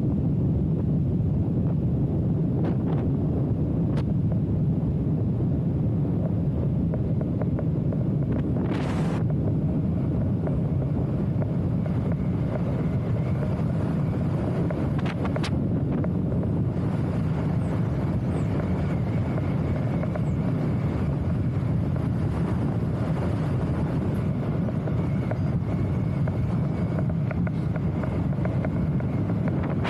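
Wind buffeting the microphone: a steady low rumble, with a couple of faint clicks.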